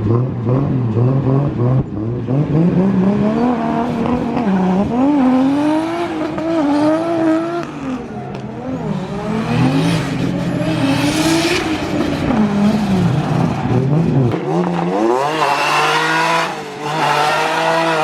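Drift car engine revving up and down over and over, its pitch climbing and dropping every second or two. Near the end it revs higher and sharper.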